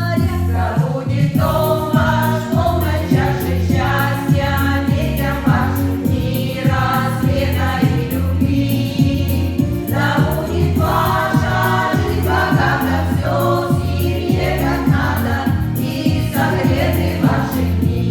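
A choir singing a song in phrases over instrumental accompaniment with a steady low beat.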